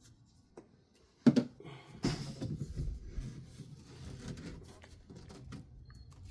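A sharp knock about a second in, then a second hit followed by a few seconds of irregular clattering and scraping, as of objects being handled and moved during pipe work.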